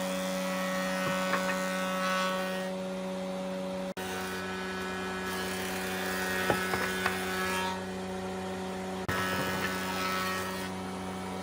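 An electric power tool's motor running at a steady pitch, with a few sharp knocks about six to seven seconds in. The sound cuts off and starts again abruptly twice.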